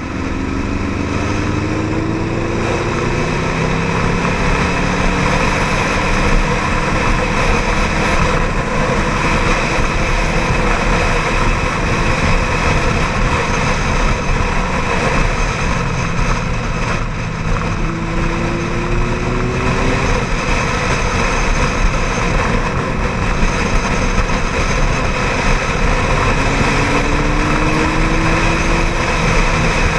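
Ducati 795 motorcycle's V-twin engine running under way, its note rising three times as the bike accelerates, under a steady rush of wind noise on the camera microphone.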